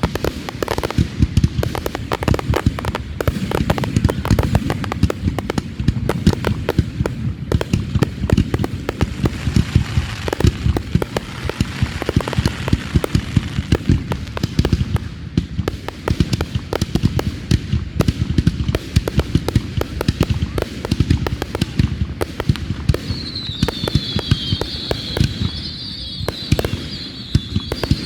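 Fireworks going off in a continuous dense barrage of bangs and crackles, many per second. A high wavering whistle joins in near the end.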